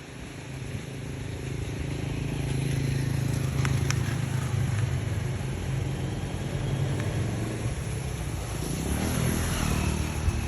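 A motor vehicle's engine running, with a low steady hum that builds over the first few seconds and fades near the end, as a vehicle passing by would.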